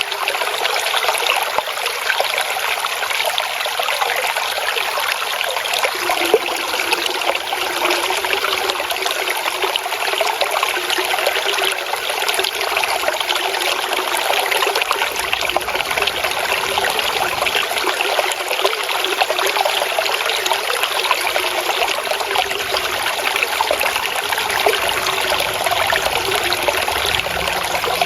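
Shallow water flowing and trickling steadily, a continuous babble with no pauses, growing slightly fuller about six seconds in.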